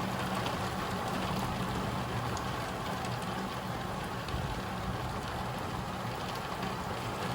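Hail and heavy rain from a thunderstorm beating on the roof and windows: a steady dense rush with scattered sharp hailstone hits, over a low steady hum.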